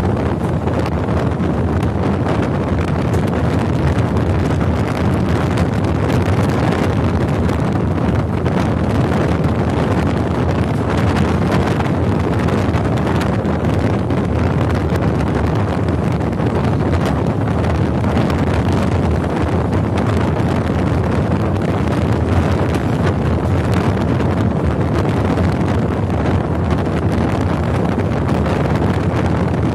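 Wind buffeting the microphone as it is held out of a moving passenger train coach, over the steady rumble of the train running along the track.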